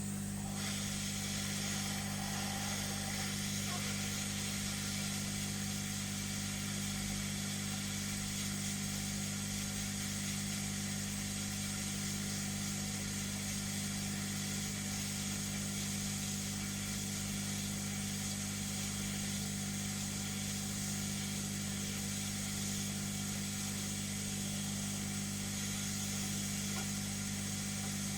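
Hot air rework gun blowing steadily, a constant fan hum under an even airy hiss, while it heats the board to desolder the Wi-Fi chip.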